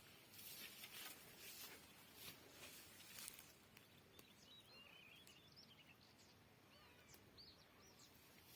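Faint small-bird chirps, a scatter of short twittering calls in the second half, over quiet outdoor background; a few soft rustling swishes come in the first few seconds.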